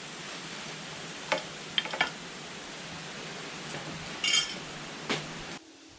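A few light metallic clinks and taps, one with a brief ring, from metal tools and hardware being handled. They sit over a steady hiss that cuts off suddenly near the end.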